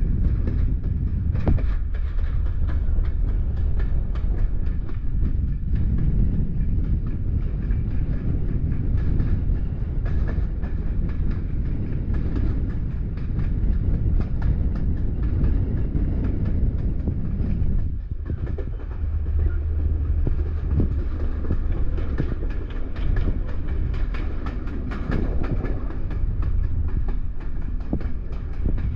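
Train running along the rails: a steady low rumble with frequent clicks from the wheels and track.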